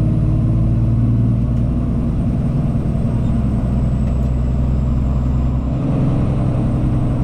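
Cummins ISX diesel engine of a Peterbilt 379 truck running steadily under way, a low drone with a brief dip and change in its note a little under six seconds in.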